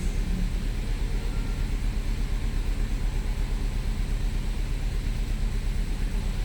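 BMW N20 2.0-litre turbocharged four-cylinder engine idling with a low, fast, regular pulsing. The car shakes with a misfire that the scan tool reads as too much on cylinder 2, and the owner blames a faulty ECU.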